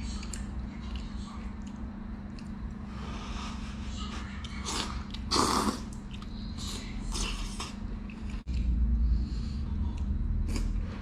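A person eating a bowl of thick noodles close to the microphone: chewing, with short slurping and breathing noises and one louder burst about halfway through, over a steady low hum.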